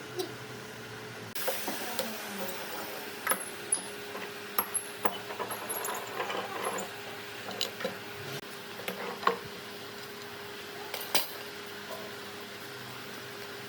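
Irregular light taps, clicks and clinks of tools and workpieces being handled, over a faint steady hum.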